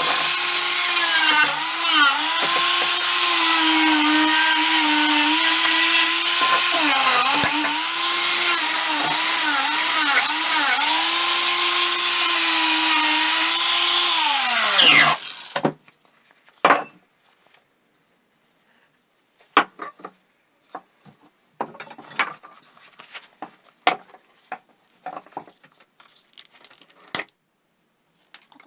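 An electric handheld power tool runs under load, its pitch dipping again and again as it bites into the work. About fifteen seconds in it winds down and stops. Scattered light knocks and clinks of parts being handled follow.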